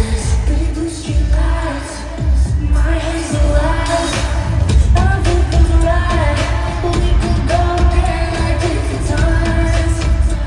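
Live pop concert music: a female singer over a heavy, pounding bass beat.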